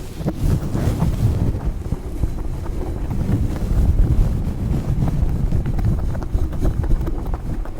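Aggressive scratching and rubbing directly on a microphone: a loud, continuous low rumble made of many quick, rough strokes.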